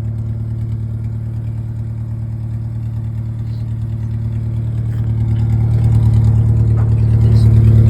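Ford Ranger pickup's engine idling steadily, with a strong low hum, heard at the newly fitted exhaust tip; it grows a little louder over the last few seconds.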